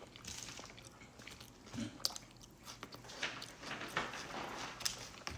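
Close-up eating of a breaded chicken sandwich: irregular chewing and biting with wet mouth smacks and sharp clicks, the sharpest about two seconds in.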